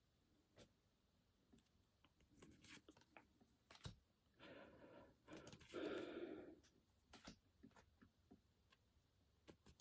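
Near silence with faint scattered clicks and a soft rustle about four to seven seconds in, from Pokémon trading cards and booster packs being handled.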